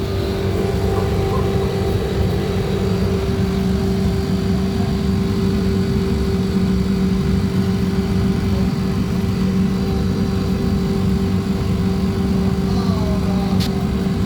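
Refrigeration unit of a Porkka walk-in fridge running with a steady mechanical hum, a low drone with a clear steady tone over it. A single click sounds near the end.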